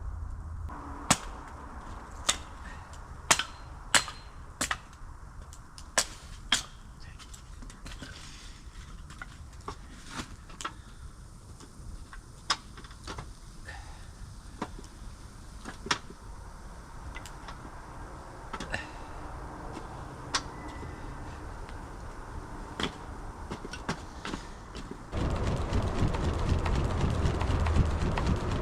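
A series of sharp, irregular clicks and knocks, close together at first and sparser later, then a steady rushing noise sets in near the end.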